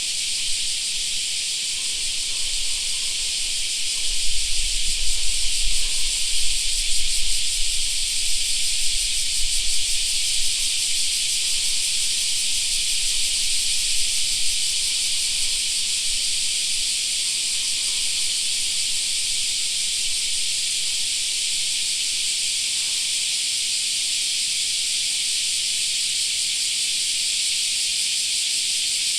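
Dense chorus of cicadas singing, a steady shrill hiss with no breaks. A low rumble rises under it from about four to ten seconds in.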